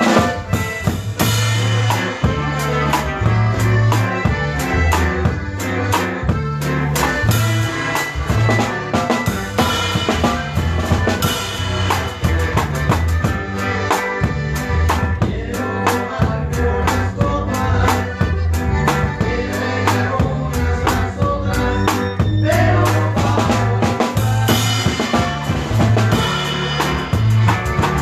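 A norteño band playing live, with a drum kit keeping a steady beat over a bouncing bass line and accordion-style melody.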